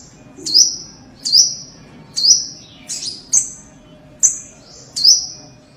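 Sogok ontong sunbird calling: a steady series of short, sharp, high chirps, each with a sudden start and a brief high note, about one a second, seven times.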